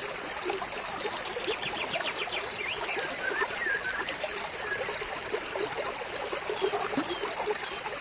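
Small stream trickling and babbling steadily over stones, with wild birds chirping now and then and a short rapid trill about two seconds in.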